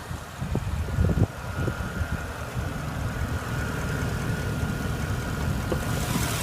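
Porsche Panamera Turbo's 4.8-litre twin-turbo V8 idling steadily, with a few short knocks about a second in.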